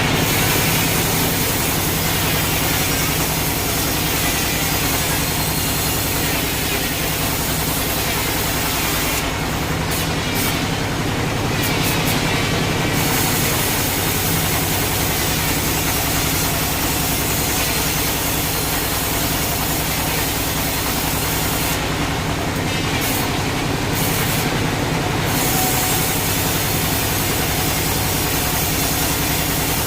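Sawmill machinery running steadily: a loud, continuous mechanical drone over a low hum. The highest hiss thins out twice, about ten and twenty-three seconds in.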